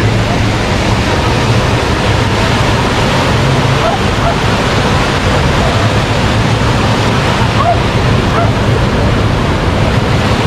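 Ocean surf washing steadily onto the beach, with wind buffeting the microphone as a constant low rumble.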